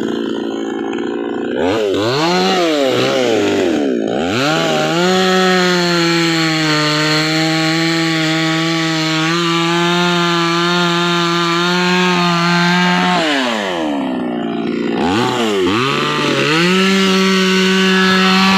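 Two-stroke chainsaw revved up and down, then held at full throttle for several seconds as it cuts wood. It drops back to idle about two-thirds of the way through, then revs up and runs at full speed again.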